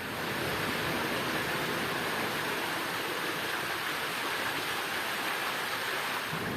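Steady rushing of water, an even hiss-like roar that holds level without pause.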